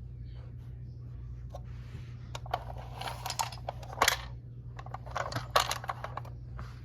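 Handling noise from a 1/32-scale diecast model truck being turned in the hands: a run of light clicks, taps and rustles, the sharpest about four seconds in and again a second and a half later, over a steady low hum.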